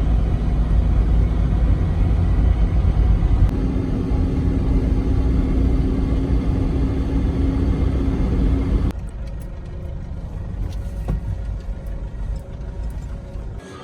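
A motor vehicle running, with a heavy low rumble and a steady hum. About nine seconds in it cuts off suddenly to a much quieter background with scattered light ticks.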